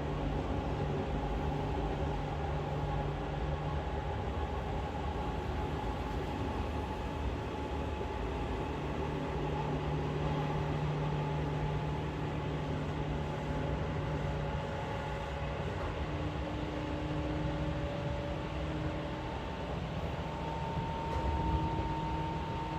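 Seibu 4000 series electric train running along the line, heard from inside the carriage: a steady rumble of wheels on rail under a few humming tones that shift a little in pitch toward the end.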